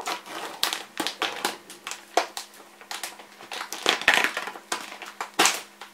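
Stiff plastic food packaging crackling and clicking in irregular bursts as fingers pick and pry at the sealed edge of a clamshell tray that is hard to open. A faint steady hum lies underneath.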